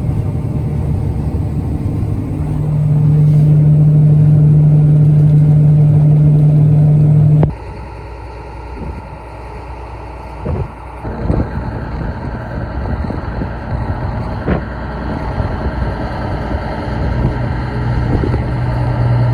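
John Deere 9500 combine harvester running steadily with a strong engine hum that swells a couple of seconds in. About seven seconds in it switches abruptly to quieter machine running with a few knocks, and the hum comes back near the end.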